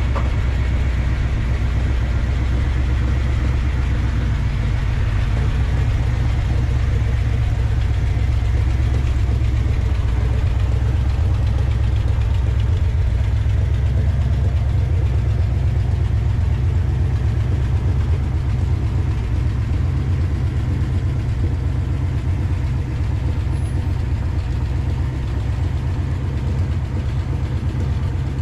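Ford F-100 pickup's engine running steadily with a deep, even rumble.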